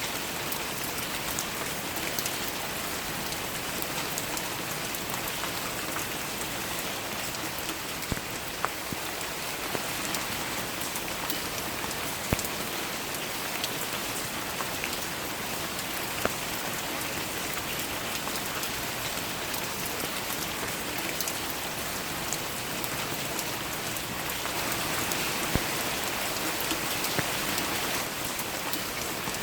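Steady rain falling, an even hiss with distinct individual drops striking close by, a few louder ones at scattered moments.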